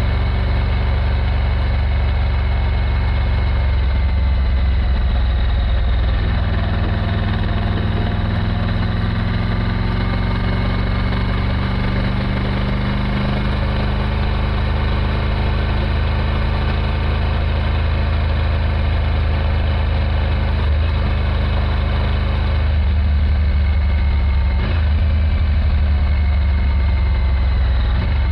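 Triumph Tiger 900 GT Pro's inline three-cylinder engine running at low revs. A few seconds in, its pitch rises and wavers gently, then drops back to a steady low note about three-quarters of the way through.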